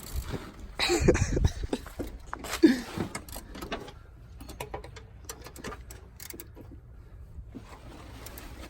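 Scattered clicks and knocks of hand tools and a body moving under a car, as a mechanic works at a starter bolt, with a louder cluster of knocks about a second in.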